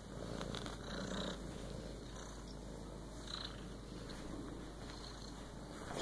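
A kitten purring steadily.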